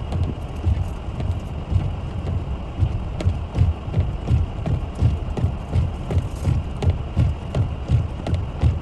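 A steady rhythm of low thumps, a few a second, over a noisy haze.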